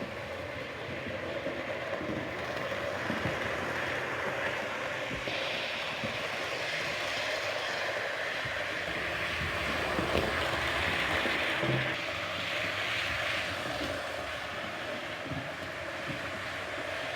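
Model train running along the track: a steady whirring rush with small irregular clicks, getting slightly louder over the first few seconds.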